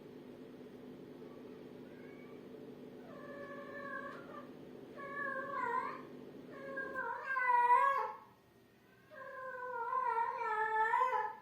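Domestic cat meowing four times, each meow louder than the last, the final one long and drawn out.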